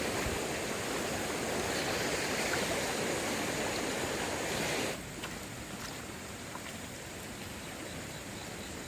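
Stream water rushing steadily; about five seconds in the rush drops abruptly to a quieter, steady flow.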